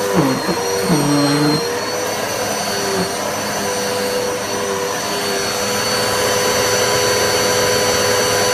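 Dirt Devil Multi-Surface+ upright bagless vacuum cleaner running with a steady high motor whine. Its pitch drops and recovers twice in the first second or so.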